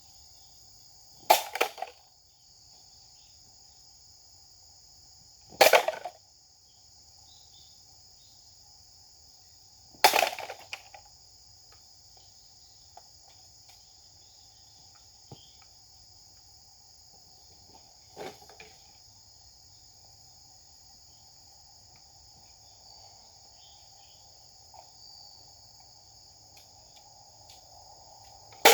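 Japanese sword (katana) strokes: three sharp, sudden swishing strikes about four seconds apart, then a fainter one later, over a steady high-pitched drone of insects.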